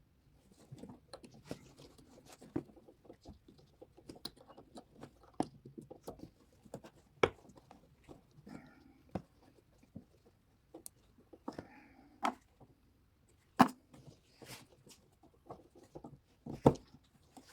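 Scattered, irregular clicks, taps and knocks of hand work on the car with tools and parts, with a few sharper, louder knocks: about seven seconds in, near the middle of the second half, and near the end.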